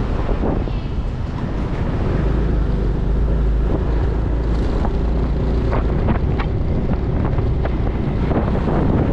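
Wind buffeting the microphone over a motorcycle's engine and road noise while riding; the low rumble grows heavier about two seconds in.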